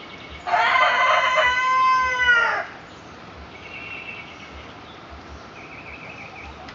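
Black Australorp rooster crowing once, a long call lasting about two seconds, with fainter short chirps from other birds afterwards. His crow is the odd one he is named Tarzan for.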